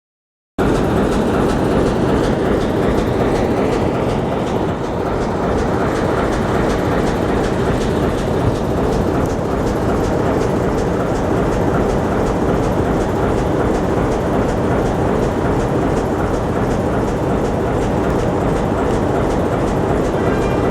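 ER2 electric multiple-unit train running along the track: a steady, loud rumble with a faint, regular ticking over it.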